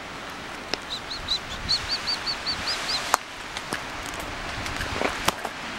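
A small bird calling a quick series of about ten short, high notes, roughly five a second, over a steady background hiss. A few sharp clicks follow later.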